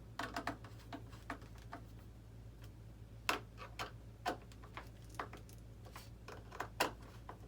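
Irregular small clicks and taps of hands working plastic model-aircraft parts and small tools at a workbench, with a few sharper knocks, over a steady low electrical hum.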